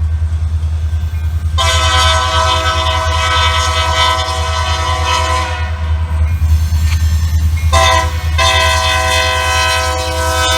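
Diesel locomotive's multi-note air horn sounding the grade-crossing signal: a long blast, a short one, then a final long one. A steady heavy rumble from the locomotive runs underneath.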